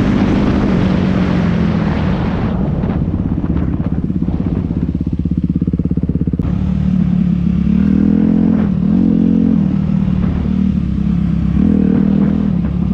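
Dirt bike engine running, its revs rising and falling about eight seconds in and again near the end.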